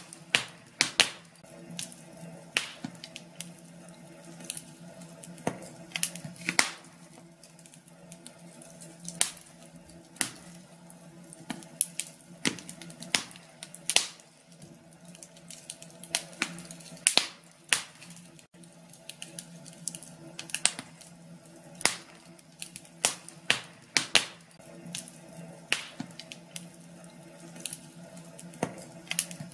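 Wood fire in a fireplace crackling, with irregular sharp pops and snaps every second or so over a faint steady low hum.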